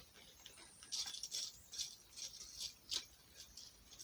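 Small kit pieces clicking and rattling against each other as a hand rummages through them looking for a particular part, a quick string of light clicks.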